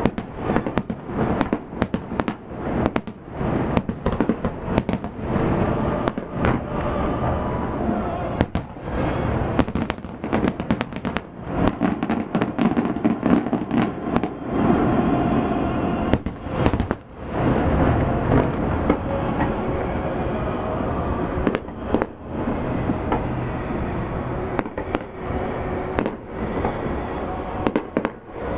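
Aerial fireworks bursting in rapid succession: a dense run of bangs and booms with crackle between them, hardly a pause throughout.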